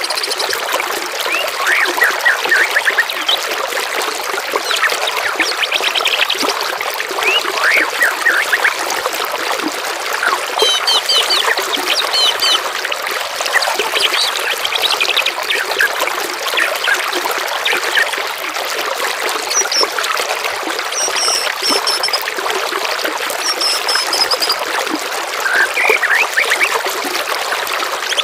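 Running water trickling steadily, with songbirds chirping and singing over it in short, scattered phrases of quick repeated notes, some of them very high.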